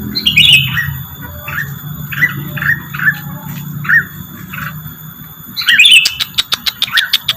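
Recorded rengganis bird calls played as a lure: a series of short falling chirps about two a second, with a harsher high squawk in the first second. Near the end comes a rapid run of sharp ticks with another high call.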